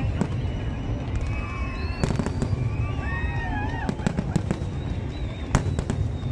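Fireworks display: sharp bangs and cracks of shells bursting at irregular intervals, several in a few seconds, over a steady low background noise.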